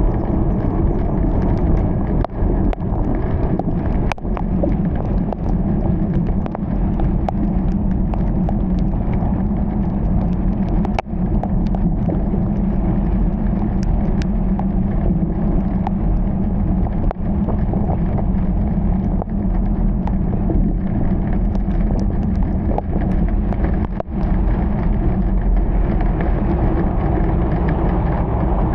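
Steady road and engine noise of a car driving through heavy rain, with a few brief dips in the sound.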